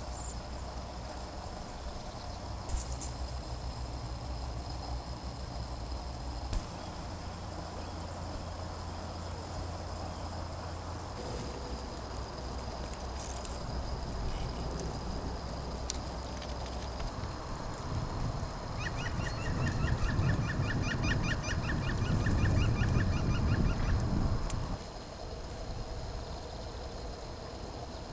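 A bird calling in a rapid run of short, evenly repeated notes for about five seconds, a little past the middle, over a steady low rumble.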